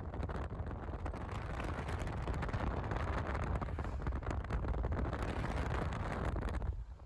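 Wind buffeting the microphone: a low rumble with hiss that cuts off abruptly near the end.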